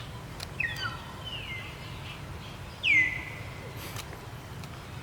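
A few short high-pitched animal calls, each sweeping down in pitch and then briefly holding, the loudest about three seconds in, over a steady low rumble.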